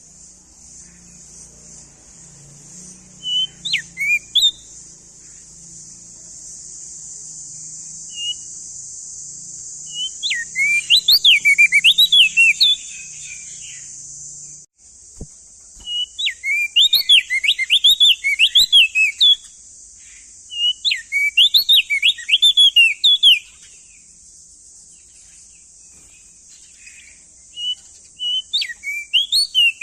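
Opior jambul (crested white-eye) singing in bursts of fast, high whistled notes that rise and fall, delivered in phrases of one to four seconds with pauses between them.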